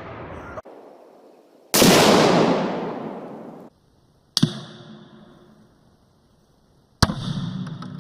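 Three loud, sudden blasts about two and a half seconds apart, the first with a long decaying tail and each cut off short: rifle fire and tannerite exploding targets going off.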